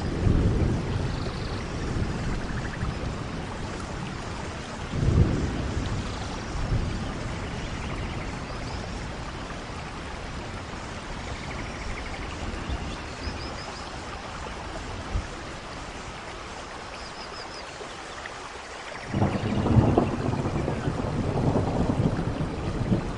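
Steady rainforest rain with rolling thunder: low rumbles swell near the start and about five seconds in, ease off, and a louder rumble begins near the end. Faint high chirps sound over the rain.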